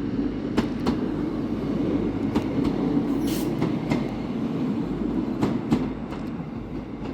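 Train running along the track: a steady rumble, with wheels clicking over rail joints and a brief high wheel squeal about three seconds in.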